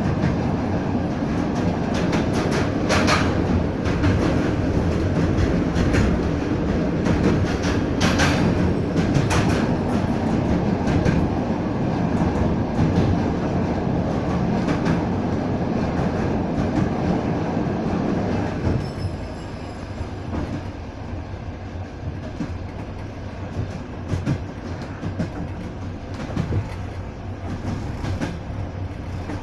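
Passenger train carriage rolling along the track, heard from inside: a steady rumble with wheels clicking over rail joints. The rumble falls noticeably quieter about two-thirds of the way through.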